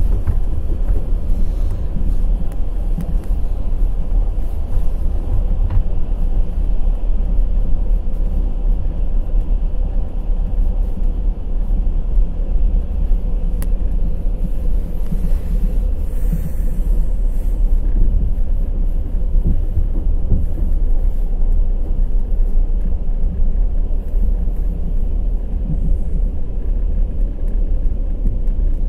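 Passenger train running at speed: a steady low rumble of wheels on the rails, with faint scattered clicks over it.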